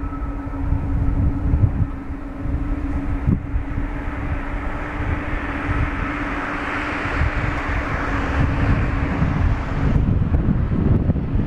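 Boeing 777-200 turbofan engines running at taxi power: a steady rushing sound with a constant hum, swelling toward the middle. Strong wind buffets the microphone with low rumbles throughout, heavier near the end after the hum stops.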